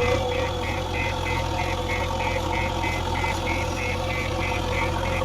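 Heavy diesel engine of farm or construction machinery idling steadily, with a regular high-pitched pulsing about three times a second running over it.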